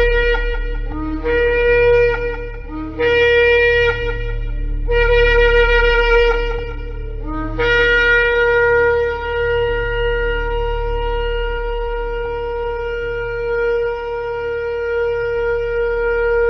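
Shofar blown in a series of blasts: four shorter ones, each starting on a brief lower note and jumping up to the main note, then one long held blast beginning about halfway through.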